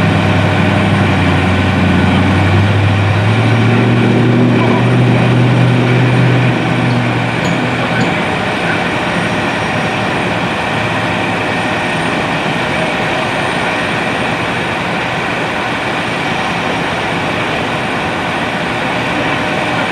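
A heavy vehicle's engine running, its low hum strengthening about three seconds in and dying away after about seven seconds, over steady traffic noise.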